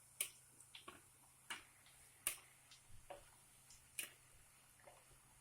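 Faint, sharp pops of hot frying oil, scattered irregularly at roughly one or two a second.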